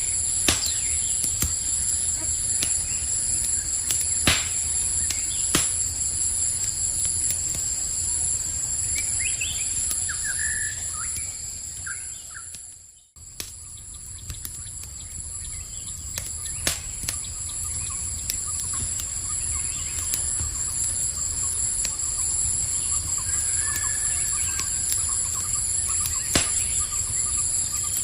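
Campfire crackling with scattered sharp pops over a steady high-pitched chorus of crickets, with a few short bird chirps about a third of the way in and again near the end. Everything fades out briefly just before halfway and comes straight back.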